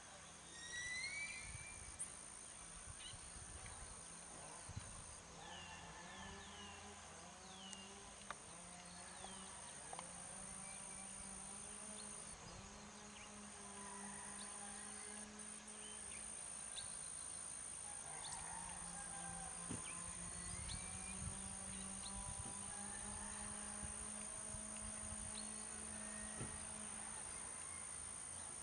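Several birds chirping and calling at dawn, short rising and falling notes in overlapping bursts, over a steady high-pitched whine and a low steady hum.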